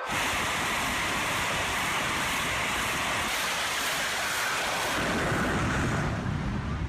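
Jet engines of a jet-powered semi truck running at full thrust: a steady, rushing roar that starts abruptly.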